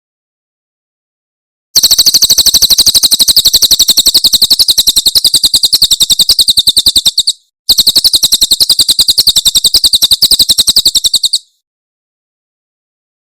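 A cililin bird giving its rapid-fire 'tembakan' call: very fast trains of identical high, sharp notes, about a dozen a second. Two runs, the first about five and a half seconds long, the second about four, with a short break between them.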